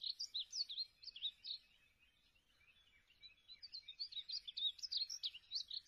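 A bird chirping faintly: quick runs of short, high chirps and trills, a brief burst in the first second and a half, then after a pause of about two seconds a longer, busier run.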